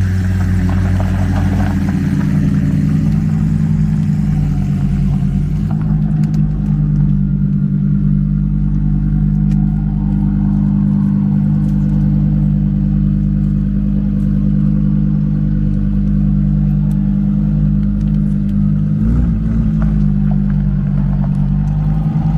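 Supercar engine running at a steady pitch, with a short rise and fall in revs about nineteen seconds in. The high hiss drops out abruptly about six seconds in.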